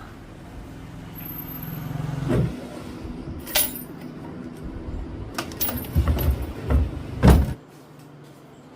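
A motor vehicle's engine running and growing louder, overlaid by a series of sharp knocks and clunks, the loudest near the end. The engine sound then cuts off suddenly.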